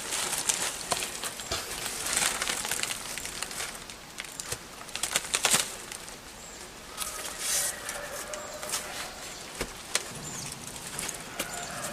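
Irregular rustling, crackling and light knocks as fire-damaged books and debris are handled and moved about, with a few short bird chirps in the background.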